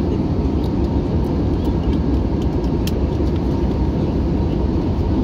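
Steady low rumble of cabin noise inside an Airbus A321-200 airliner, from its engines and air systems, with a faint steady hum and a click or two.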